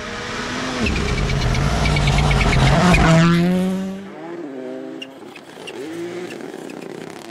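A rally car's engine at full throttle, revving higher and getting louder as it approaches, loudest about three seconds in. The note then drops as it passes and moves away, running on more quietly with shifts in pitch.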